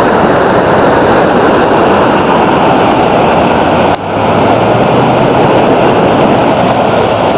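Loud, steady rush of high floodwater pouring through a river dam, with a brief dip about four seconds in.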